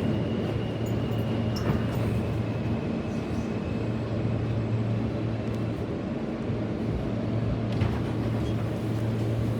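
Steady low hum of a New York City subway E train car standing in a station, with a faint high whine that fades out about three seconds in.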